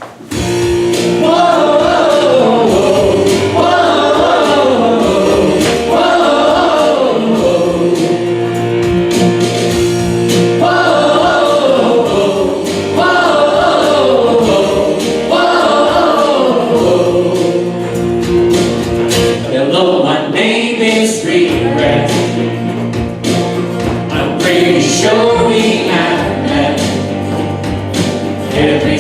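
A hymn sung by a group of voices over sustained instrumental accompaniment, beginning suddenly at the start.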